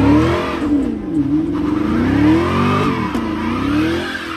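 Car engine revving hard and repeatedly, the pitch climbing and dropping back three times.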